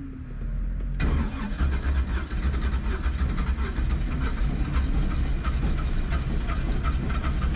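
Twin-turbo LS V8 cranking, then catching about a second in and running, heard from inside the car. The engine has failed rods and pistons in cylinders 1 and 2.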